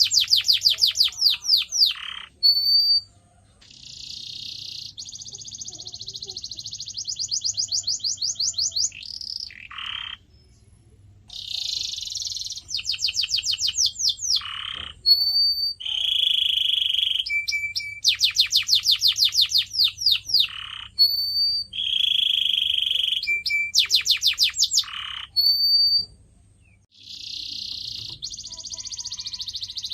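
Canary singing: high-pitched phrases of rapid repeated trill notes and buzzy rolls, a few seconds each, broken by brief pauses.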